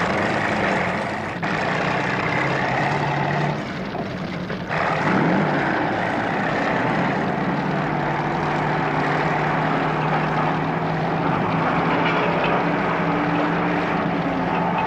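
Film sound effect of the Firefly, a heavy rescue vehicle, with its engine running steadily as it drives into and clears burning rubble. The sound changes abruptly about one and a half and five seconds in.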